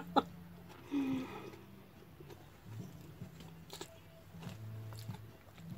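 A person chewing a hand-fed mouthful of rice and fried fish, with soft smacking clicks every second or so, over a faint steady low hum.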